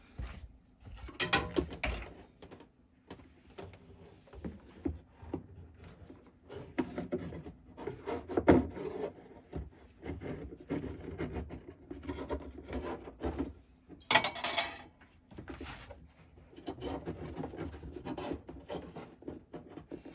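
Irregular rubbing, scraping and small knocks of hand work, feeding a wire taped to a fish tape through a hole. About fourteen seconds in there is a brief, sharper hissing rasp.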